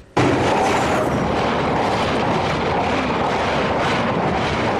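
A passing train: a loud, steady rush of running noise that cuts in suddenly and holds level throughout.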